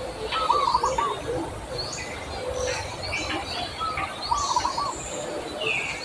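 Birdsong: several birds chirping with short high calls, and two brief warbling phrases of quickly repeated notes about half a second and four and a half seconds in.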